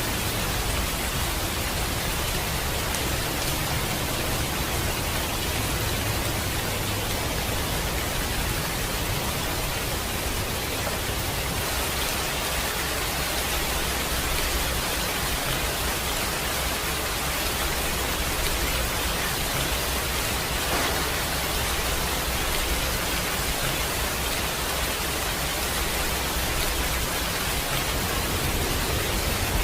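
Steady rain falling, a dense even hiss of raindrops.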